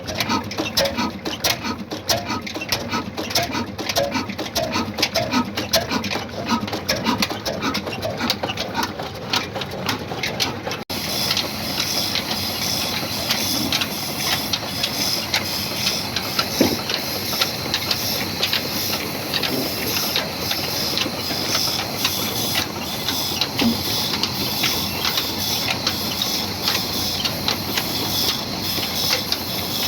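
Large, slow-running old diesel engine running with an even, rhythmic knocking beat. About eleven seconds in, the sound cuts abruptly to a steadier, hissing machine noise with scattered clicks.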